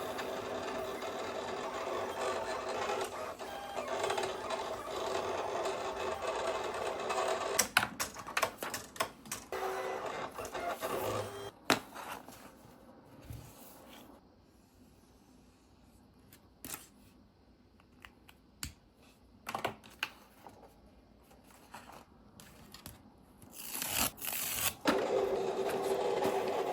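Electric sewing machine running with a steady hum, stopping after about seven seconds, followed by scattered clicks and knocks of handling, then starting up again near the end.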